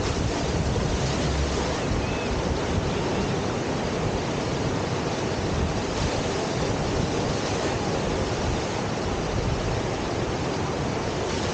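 Steady rush of whitewater from a standing river surf wave, with some wind on the microphone.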